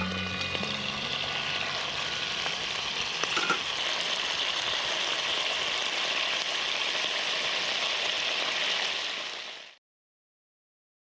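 Hamburg steak patties frying in a cast-iron Dutch oven: a steady, dense sizzle that cuts off suddenly near the end.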